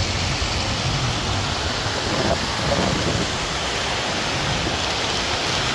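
Gusty mountain wind buffeting the microphone: a steady rushing noise with a heavy, fluttering low rumble.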